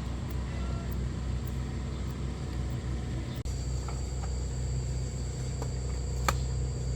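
A steady low mechanical rumble, like an engine running at idle. About three and a half seconds in, a brief drop is followed by a faint high steady trill and a few light clicks.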